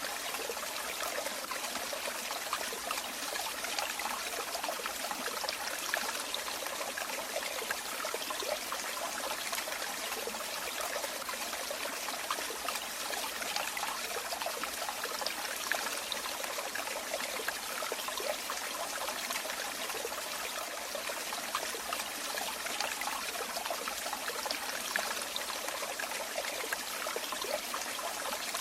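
Running water trickling and splashing in a steady, unbroken flow, full of small fine splashes.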